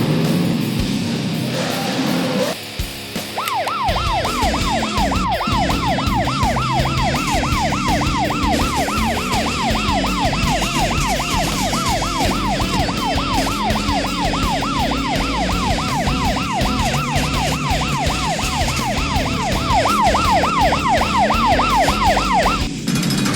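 Electronic police siren in yelp mode, a fast rising-and-falling wail repeating several times a second, starting a few seconds in and cutting off shortly before the end, over background music.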